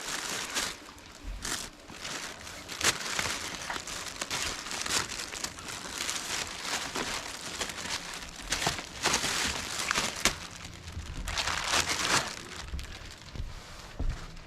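Irregular crunching and rustling, with scattered sharp clicks, through the whole stretch.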